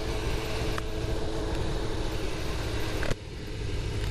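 Suzuki GSX-R750 inline-four engine running steadily under heavy wind rush on a moving motorcycle. About three seconds in, there is a click and the wind noise and engine tone drop sharply.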